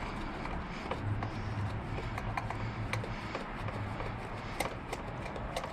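Scattered light clicks and taps of plastic fairing pieces and their fasteners being handled and fitted, over a low steady hum.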